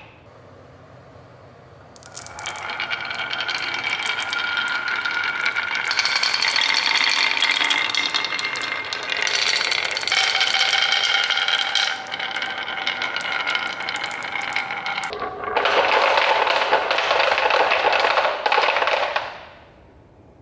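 Marbles rolling and clattering along a marble run, a dense rattle of small clicks with some ringing tones, starting about two seconds in. A louder rushing rattle follows near the end, then it stops suddenly.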